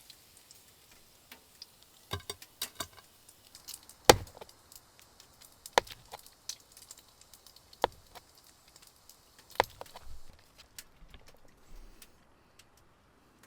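A knife knocking on a wooden cutting board, cutting ham: single sharp knocks a second or two apart, the loudest about four seconds in, with faint ticks between.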